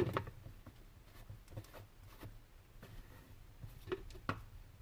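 Faint clicks and light knocks of things being handled, with a sharper knock about four seconds in.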